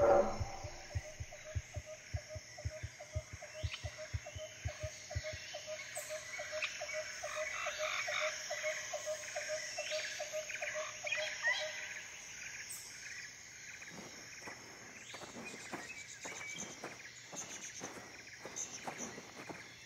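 Night-time animal ambience: a short frog-like croak repeating evenly about three times a second for around twelve seconds. For the first five seconds soft low thumps run under it, and scattered higher chirps sound above it. After that come dry crackling, rustling clicks.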